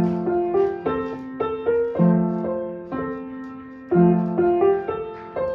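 Piano playing a simple melody in F major at a steady counted pace. Left-hand chords are struck about every two seconds and held for their full length under the right-hand tune.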